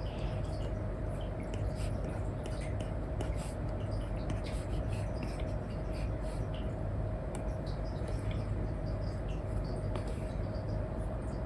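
Apple Pencil nib scratching and tapping across a paper-like screen protector in short, irregular strokes, over a steady hiss with a low hum and a faint thin tone.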